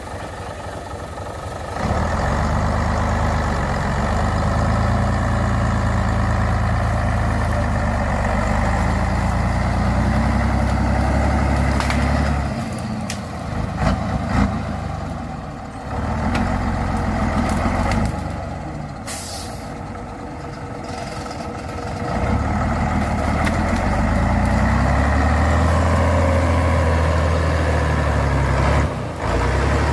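Truck engine working hard in long loud stretches, dropping back between them, as the truck tries to pull out of deep mud. A short burst of hissing air, like an air brake release, comes about two-thirds of the way through.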